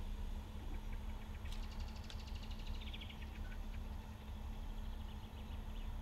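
Faint low rumble of a diesel railcar approaching in the distance, with a small bird singing a quick trill that falls in pitch about a second and a half in.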